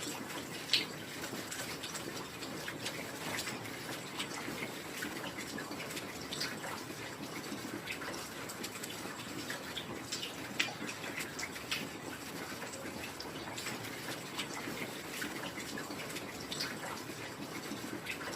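Heavy rain falling steadily as a dense patter, with scattered louder single drops; the sharpest come just under a second in and about ten and a half seconds in.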